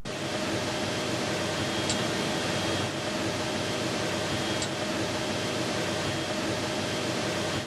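Steady hum and hiss of the space station cabin's ventilation fans, with a few steady tones in it and a couple of faint ticks.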